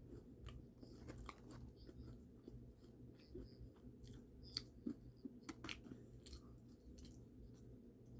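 Faint close-up chewing: a person eating, with scattered small wet clicks and crunches from the mouth over a low steady hum.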